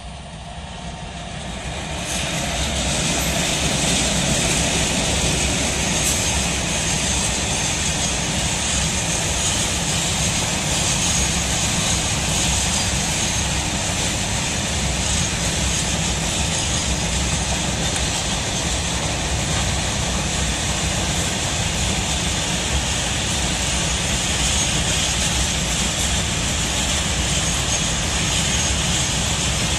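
Indian Railways freight train passing close by on an embankment. The sound swells over the first two seconds as the train arrives, then holds as a steady loud rumble of the wagons rolling over the rails.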